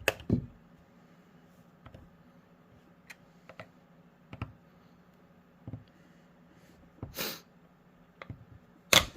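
Plastic tabs of a Theragun's side panel clicking and snapping as the panel is pried up with a tool: a dozen or so irregular sharp clicks with one short scrape, the loudest near the start and near the end. A faint steady hum runs underneath.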